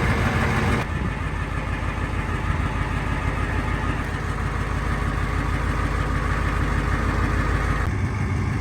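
Pickup truck engine running steadily at idle, with an even low pulse. The sound changes abruptly about a second in and again near the end, as if separate recordings were cut together.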